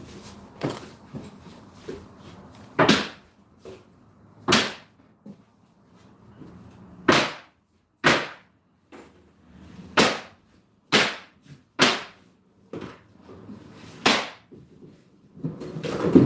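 Sharp single knocks, about eight of them, spaced irregularly one to two seconds apart.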